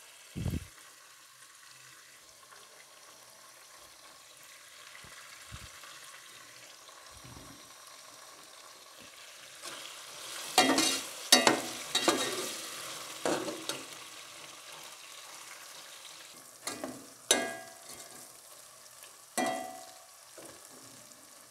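Meat with onions, ginger and whole red chillies sizzling in oil in a steel pot as it is browned. A low knock comes just after the start. From about halfway through, a metal slotted spatula scrapes and clanks against the pot in several stirring strokes.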